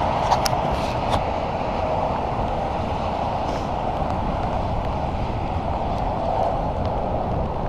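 Steady rushing noise of riding a bicycle in the rain: wind buffeting the microphone and tyres hissing on the wet road. There are a few small clicks about a second in.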